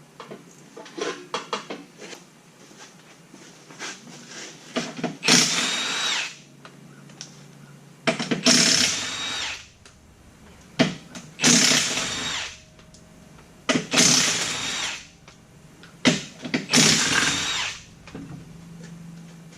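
Impact wrench running in five bursts of about a second each, a few seconds apart, taking a wheel's lug nuts off. A few light knocks come just before the first burst.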